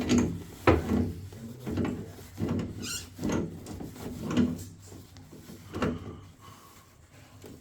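A part being screwed into a combi boiler and tightened by hand or spanner: a series of short scraping, clunking strokes about once a second, fading out near the end.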